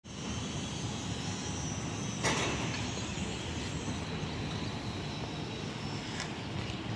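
Steady outdoor background noise, like wind and distant traffic, with one sharp knock about two seconds in.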